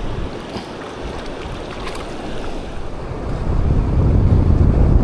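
Wind buffeting the microphone over the steady rush of mountain stream water; the low wind rumble gusts stronger about three seconds in.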